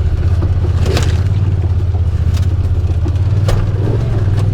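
Side-by-side UTV engine running at a steady pace while driving, with a few sharp knocks and clatters from the machine jolting over rough trail.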